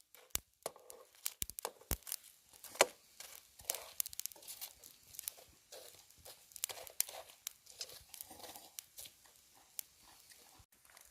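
Wood fire in a camping fire pit crackling, with irregular sharp pops and snaps.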